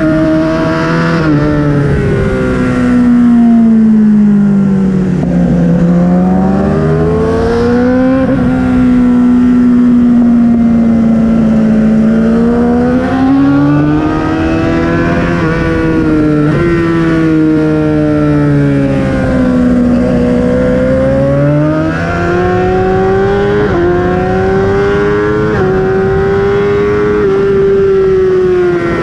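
BMW S1000RR's inline-four engine under hard riding, its revs climbing and falling again and again. The pitch drops sharply now and then at gear changes.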